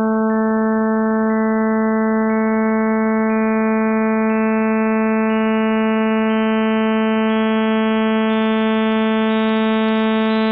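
Synthesized tone sonifying a math function: one steady low buzzing note whose sound grows brighter as a higher overtone is added about once a second.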